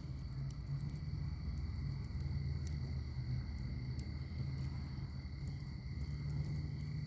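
Wood fire in a fire pit crackling, with sparse small pops over a steady low rumble. A steady high insect trill runs behind it.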